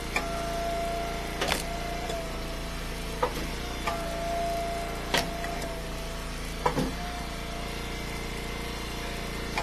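Engine-driven hydraulic wood splitter running steadily with a held whine, while about five sharp wooden knocks sound as split firewood is handled.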